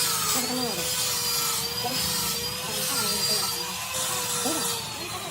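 Rhythmic rubbing strokes by hand, about one a second, like sanding or scrubbing a part, over a steady faint hum.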